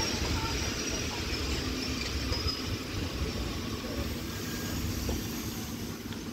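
Passenger coaches of a Thai ordinary train rolling past close by, the wheels giving a steady low rumble on the rails that eases off slightly.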